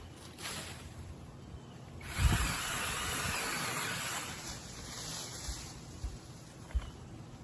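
TaskStar 8-inch cordless brushless mini chainsaw running with no load in short trigger pulls. One two-second run starts with a knock about 2 seconds in, followed later by a couple of light knocks.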